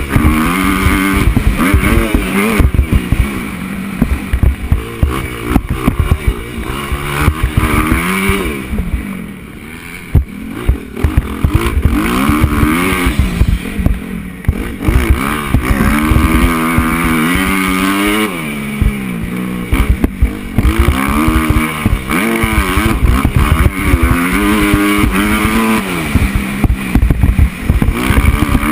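Motocross bike engine heard up close from an onboard camera, revving hard and dropping back over and over as the rider shifts and rolls off for turns and jumps. Loud wind buffeting and bumps hit the microphone throughout.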